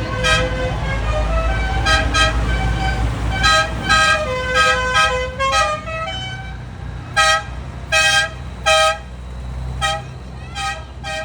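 Tractor horns tooting again and again in short blasts of differing pitch, some overlapping, over the low, steady running of tractor engines.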